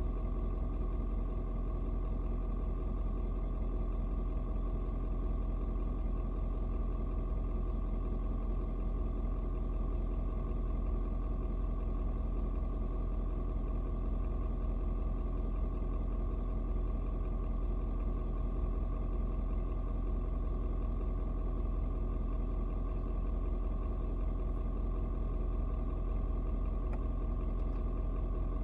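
Ford Super Duty's 6.7-litre turbo diesel V8 idling steadily after a cold start, the engine still cold and not yet dropped to its lower warm idle.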